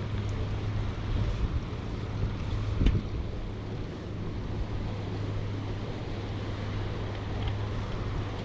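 Wind rushing over the microphone of a camera on a moving bicycle, steady throughout, with a single knock about three seconds in.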